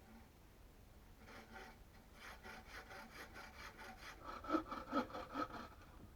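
Hand saw cutting wood in quick back-and-forth strokes, about three a second. It starts about a second in, and the last few strokes near the end are the loudest.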